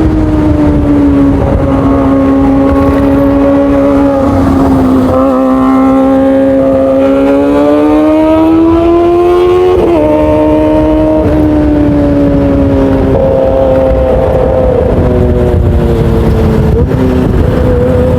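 Motorcycle engine pulling hard on the road, over heavy low wind rumble on the microphone. The engine pitch climbs steadily for a few seconds in the middle, then drops sharply, like an upshift, and settles lower again.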